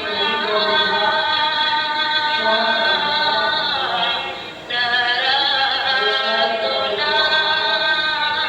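Randai song: a sung melody of long held, wavering notes, with a brief break between phrases about halfway through.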